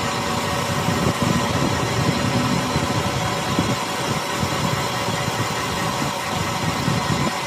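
A truck's engine idling steadily.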